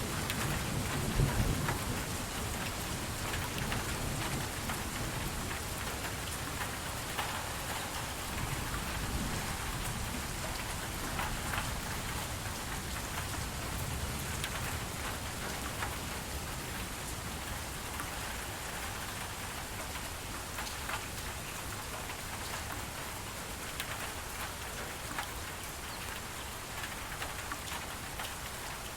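Steady rain falling on a surface, with many individual drops ticking through the hiss. A low rumble of thunder dies away in the first couple of seconds.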